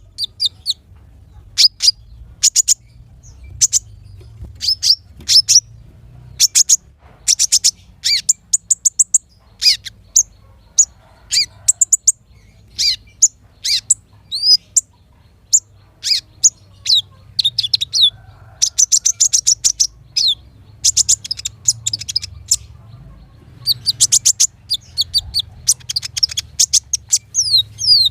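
Small songbird singing in quick bursts of high-pitched chirps and short rapid trills, some notes sweeping downward, with brief gaps between phrases.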